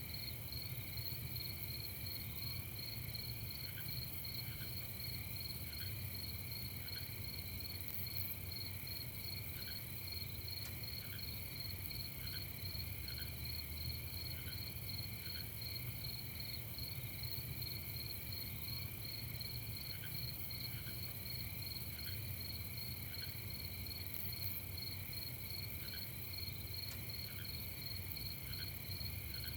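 Night chorus of crickets chirping steadily, several overlapping high trills at different pitches, with a short lower note repeating about once a second through much of it over a faint low rumble.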